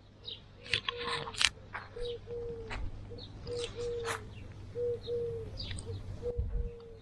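Birds calling: a low note repeated over and over in short, slightly falling calls, with higher chirps and a few sharp clicks in between.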